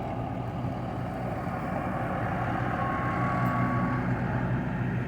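A large vehicle engine idling steadily, with a low, even hum. A short, faint steady tone sounds about three seconds in.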